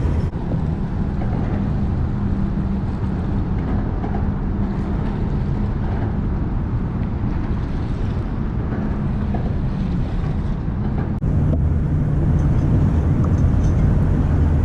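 Steady low drone of a boat motor with wind noise on the microphone; the drone shifts and grows a little louder about eleven seconds in.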